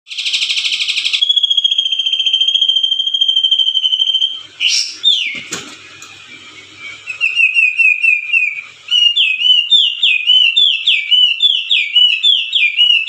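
A bird calling: a buzzy rapid trill for about a second, then a long steady high whistle lasting about three seconds, a falling sweep, and a run of repeated down-slurred notes that grows louder about nine seconds in, at roughly one and a half notes a second.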